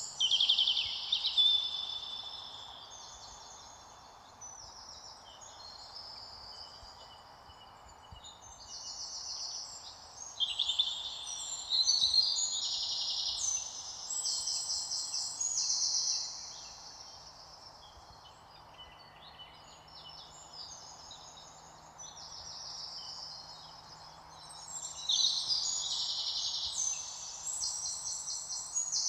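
Several songbirds singing, with repeated high chirps and rapid trills coming in phrases, some louder and some softer, over a steady faint hiss.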